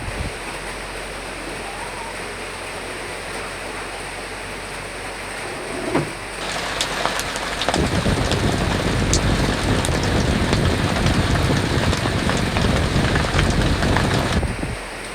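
Steady rain. About six seconds in there is a short thump, and the rain turns heavier, with many sharp drops ticking on a hard surface. Near the end it eases back to a steady patter.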